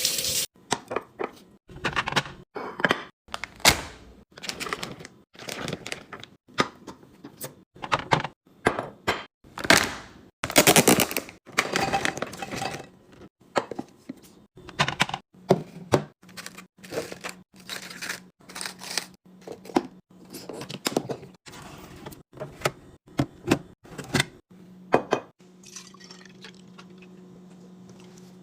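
Containers, jars and packaging being handled and set down while restocking a fridge: a quick run of clinks, knocks and plastic clatter, with a longer rustling, pouring-like stretch about ten seconds in. A steady low hum comes in later and is clearest near the end.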